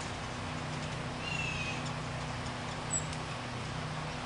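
Birds calling over a steady low hum: a short falling call about a second in, then a brief, sharp, high chip near three seconds.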